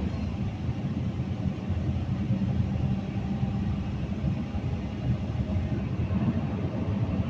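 Caterpillar 320D2 L excavator's diesel engine running steadily at full throttle, a constant low rumble. The mechanic finds its rpm lower than it should be, a sign of low engine power.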